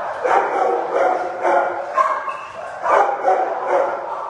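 Several shelter dogs barking in their kennels, a steady run of barks about one or two a second.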